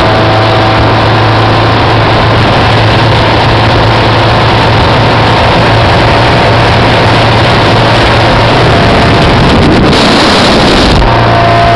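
Speedboat engine running steadily at speed, with wind and rushing water over the microphone. Near the end the engine note breaks off for about a second under a brighter hiss, then comes back.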